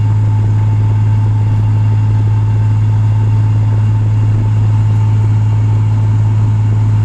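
Nissan 300ZX (Z32) 3.0-litre V6 droning at a steady cruise, heard from inside the cabin, with road noise.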